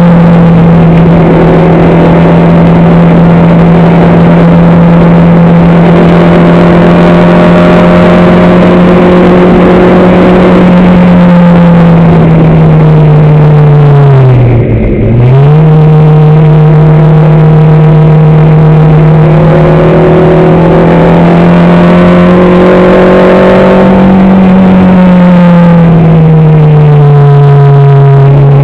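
Racing car's engine heard on board, very loud and held at steady high revs. About halfway through, the revs dip sharply for a moment and climb straight back, and they ease down a little near the end.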